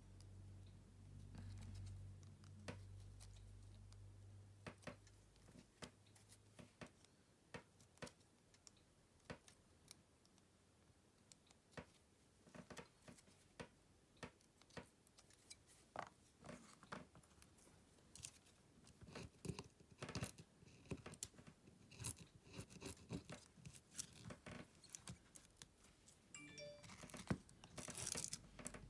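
Small hand tools clicking and scraping against a Samsung Galaxy M31s smartphone as it is taken apart. The clicks are scattered at first and come faster in the second half, with a low hum in the first few seconds.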